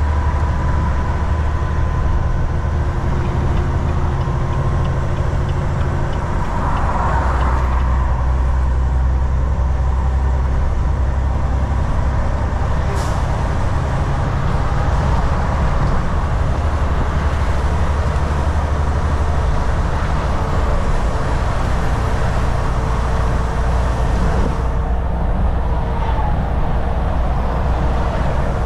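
Volvo VNL 760 semi-truck's diesel engine running steadily at highway speed, with tyre and road noise; the engine note changes about six seconds in and again later. A single sharp click comes near the middle.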